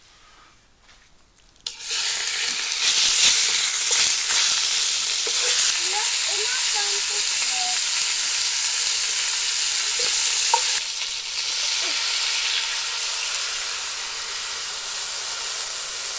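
Chicken pieces searing in hot oil, a loud steady sizzle that starts abruptly about two seconds in.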